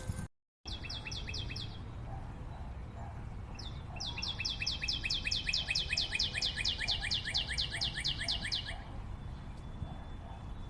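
A forest bird calling in rapid runs of sharp, repeated, down-slurred notes, about six a second. A short run comes near the start and a longer one of about five seconds in the middle, over a low steady background rumble. The sound cuts out completely for a moment just after the start.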